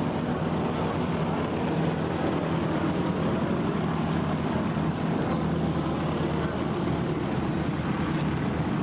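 Piston engine of a propeller aircraft running steadily, its drone holding an even pitch without revving up or down.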